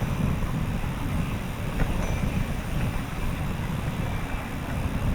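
Wind rumbling and buffeting on the microphone of a camera carried on a moving bicycle, a steady low roar that never lets up.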